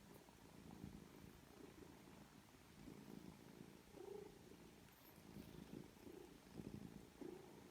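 Faint purring of a domestic cat, swelling and fading in steady pulses about once a second.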